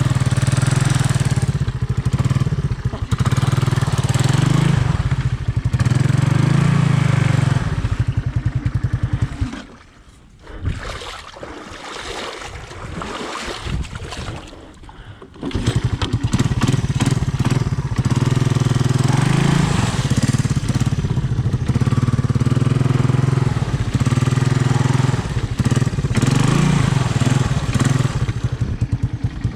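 Honda ATC 200M three-wheeler's single-cylinder four-stroke engine running loudly. It drops out for about six seconds in the middle, leaving only weaker scattered sound, then comes back at full strength.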